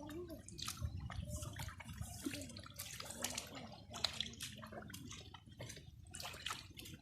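Water splashing and dripping in many small irregular splashes, as if hands or fish are moving in shallow water.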